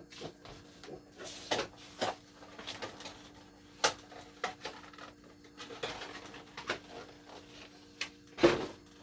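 Light clicks and knocks of dishes and kitchen items being handled during breakfast preparation, the loudest knock near the end, over a faint steady hum.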